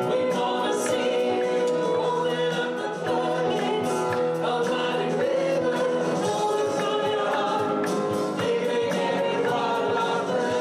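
Gospel worship music: a choir or group of voices singing over instruments with a steady beat.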